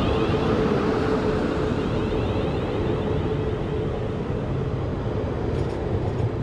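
South Western Railway electric multiple-unit train running into the station platform and passing close by. The sound is a steady rolling noise with a held hum that fades out about four seconds in.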